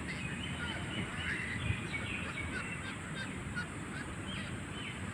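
Birds calling: many short, downward-sliding calls in quick succession, over a steady low background rumble.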